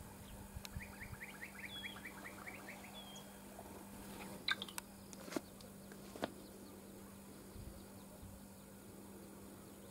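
A bird calling: a quick run of about a dozen short falling chirps, about six a second, in the first few seconds, with a couple of higher whistled notes. A few sharp clicks come around the middle, over a faint steady hum.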